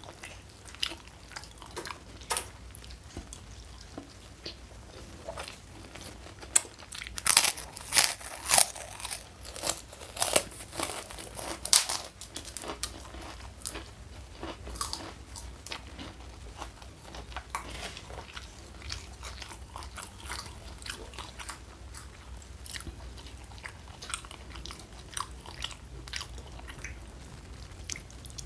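People chewing and biting crunchy food, with a run of loud crunchy bites about seven to twelve seconds in, then softer, steadier chewing.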